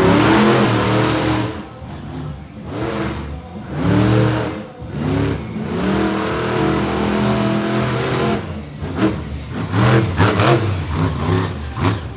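Monster truck engine revving hard, climbing and falling in pitch again and again with repeated bursts of throttle.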